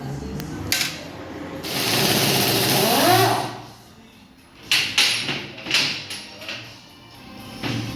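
A power tool runs for about two seconds, its pitch rising near the end, then several sharp knocks follow.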